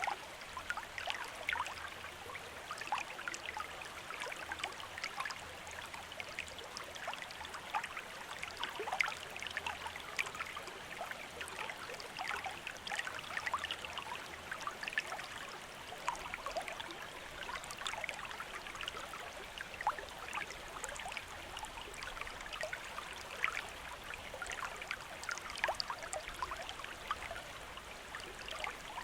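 Running water of a shallow stream: a steady rushing with dense, irregular small splashes and gurgles.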